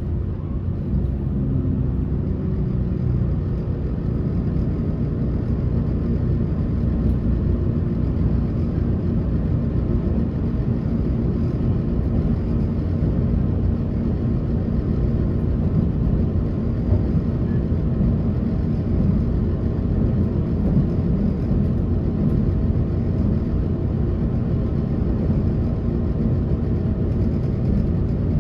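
Passenger train running at speed, heard from inside the car: a steady low rumble with no sudden changes.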